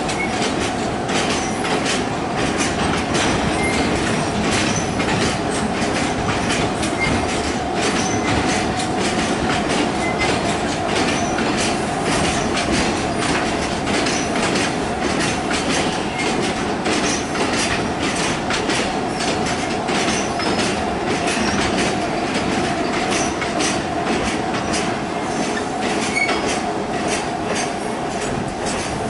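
Loaded freight train of Hoki 2000 hopper wagons rolling by slowly, wheels clicking over rail joints. A steady wheel squeal runs under the clatter.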